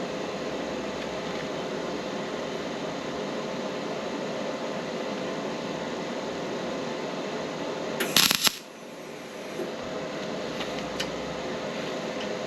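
A brief, loud crackling burst about eight seconds in: a TIG tack weld on a stainless steel exhaust pipe. A steady mechanical hum runs under it, and a few faint clicks follow.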